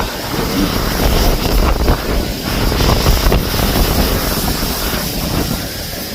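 Strong gusty wind buffeting the microphone with a heavy low rumble, over a steady high whine from the twin 80 mm electric ducted fans of an RC MiG-29 jet.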